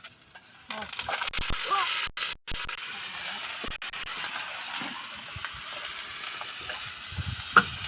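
Spinach and oyong stir-fry sizzling in a pan, a steady hiss with scattered clicks of the utensil, and one sharp knock near the end.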